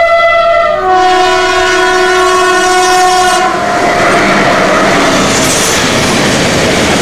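Pesa Gama electric locomotive sounding its two-tone horn: a higher chord changes to a lower one about a second in and cuts off about three and a half seconds in. The loud rush and wheel rumble of the train passing at speed follow.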